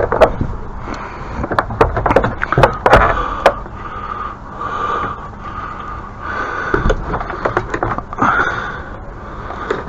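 Irregular knocks, clicks and clatter of gear being handled and set in place, between stretches of a breathy hiss.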